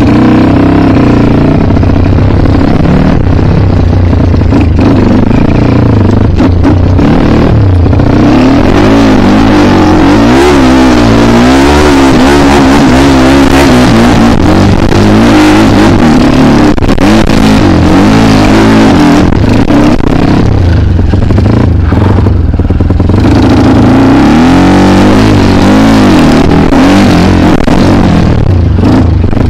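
Kawasaki KLX dirt bike's engine, loud and close, revving up and down constantly as it is ridden through an enduro section.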